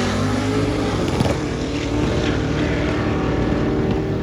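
Turbocharged five-cylinder engine of a Volvo V70 drag car running at a steady speed, with a brief knock about a second in.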